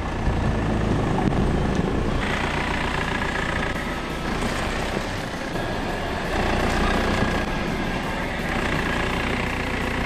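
BMW car engine running at low speed as the car creeps forward.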